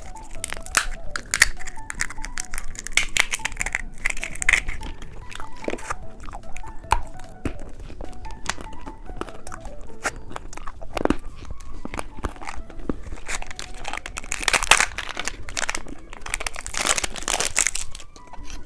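Candy being crunched and chewed close to the microphone in irregular crackling bites, with some wrapper crinkling, over quiet background music; the crunching is thickest near the end.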